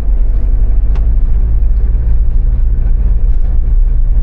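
A 26-year-old motorhome's engine running at low speed: a steady, loud low rumble. A single sharp click sounds about a second in.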